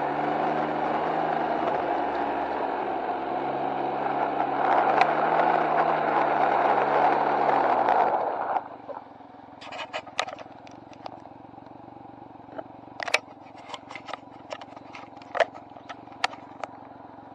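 Can-Am Ryker three-wheeler's engine running at low speed with wind noise. The engine note falls as the machine pulls up about eight seconds in, and then the sound goes much quieter. Scattered sharp clicks and knocks follow in the second half.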